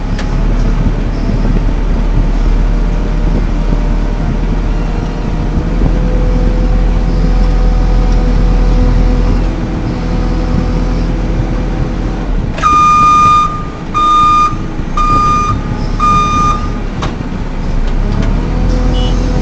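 JCB 3CX backhoe loader's diesel engine running steadily under work. About two-thirds of the way in, a reversing alarm beeps four times, evenly spaced.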